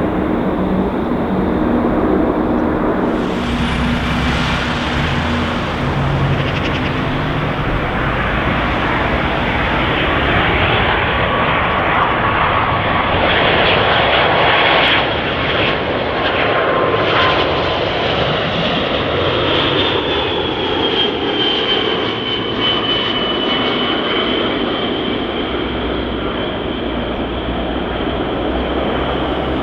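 Jet airliner's engines running loud and steady as the plane passes close by, a continuous roar with a high whine that slides slightly down in pitch as it goes past.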